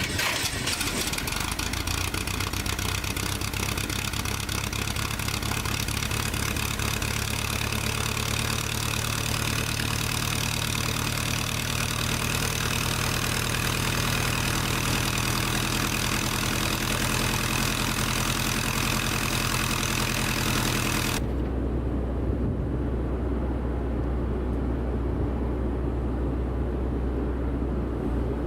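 An engine running steadily. About 21 s in, the sound changes abruptly to a duller, low steady hum.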